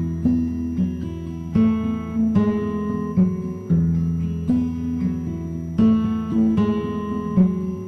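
Background acoustic guitar music: plucked, ringing notes over a low bass line.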